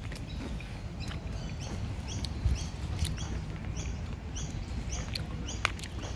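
A small bird chirping in a quick series of short, high notes, about three a second, starting about a second and a half in and stopping near the end. A few sharp clicks and a low steady rumble sit underneath.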